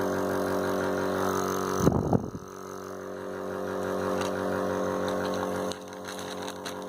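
Dr Trust compressor nebulizer's compressor running with a steady, buzzing hum; it is not making much noise. A brief knock sounds about two seconds in.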